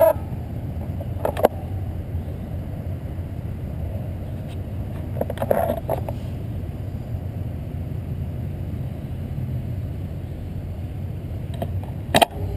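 Steady low rumble of road and wind noise during a bicycle ride, with three brief rattles or clicks: about a second and a half in, about five and a half seconds in, and near the end.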